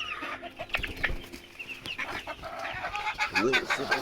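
A flock of chickens, young bantams among them, clucking and calling, with many short overlapping calls.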